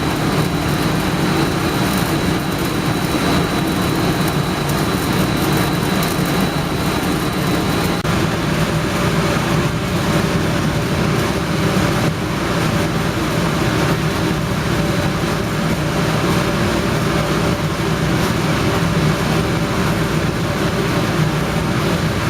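Steady machinery running: a low hum with an even rush of noise over it, with a faint high tone for the first several seconds and a slight change in the sound about eight seconds in.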